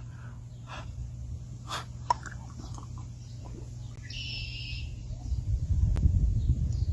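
A bottle of Pepsi Blue soda is opened with a short fizzing hiss about four seconds in, followed by a man drinking it in low gulps near the end.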